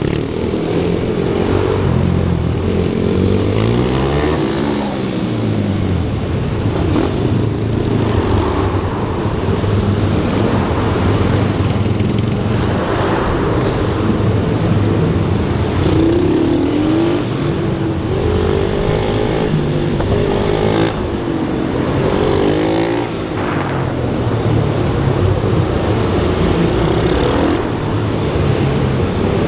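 Several small pit-bike engines on a track, revving up and down through the gears. Their pitches rise and fall repeatedly and overlap one another.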